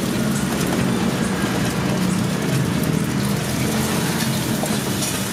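Onion and egg sizzling in a hot wok over a gas burner, stirred and scraped with a wooden spatula, over a steady low rumble.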